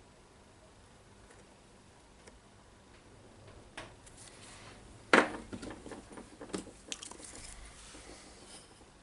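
Light handling noises at a workbench: a few small clicks, then one sharper knock about five seconds in followed by a run of light taps and rattles as small parts and tools are moved.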